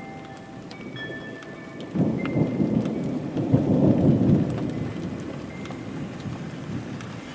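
Steady rain with a roll of thunder: about two seconds in, a deep rumble starts suddenly, swells for a couple of seconds and then dies away slowly.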